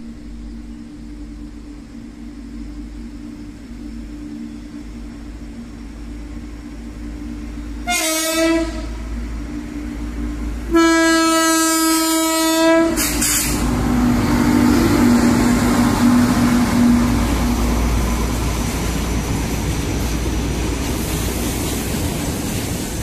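WAG-9 electric locomotive sounding its horn as it approaches, a short blast about eight seconds in and then a long blast of about two seconds, both on one steady note, over a steady low hum. It then runs past, followed by the steady rolling noise of the empty open freight wagons.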